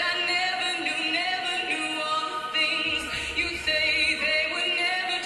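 A woman singing a slow pop ballad over backing music, holding long notes with vibrato. A low swell enters in the accompaniment about three seconds in.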